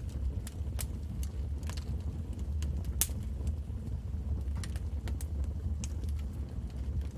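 Wood fire in a fireplace crackling, with frequent sharp pops, the loudest about three seconds in, over a steady low rumble.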